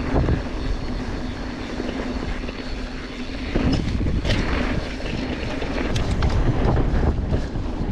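Mountain bike rolling over a dirt trail, with a steady rumble of tyres and wind on the camera microphone and scattered clicks and rattles from the bike.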